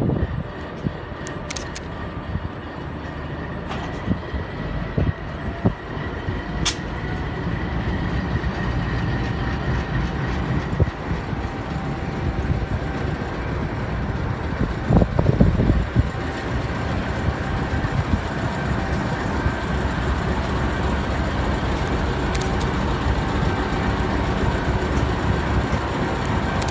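Passenger train rolling slowly into a station while braking toward a stop: a steady rumble of wheels and carriages with faint high squealing tones, a few sharp clicks, and a brief louder thump about halfway through.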